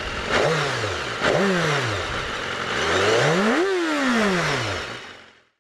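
Harley-Davidson Street 750 V-twin engine revving three times, each time rising then falling in pitch; the third rev is the longest and highest. It fades out near the end.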